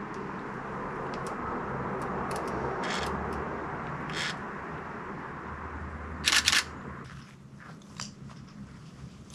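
Hand trigger spray bottle squirting, two quick squirts about six seconds in, with fainter single squirts earlier, over a steady rushing background noise.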